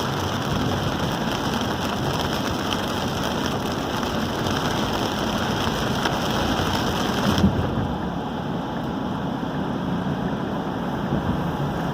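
Heavy rain on a moving car, mixed with the tyres on the wet road: a steady, dense hiss. About seven seconds in, the higher part of the hiss suddenly drops away and the sound turns duller.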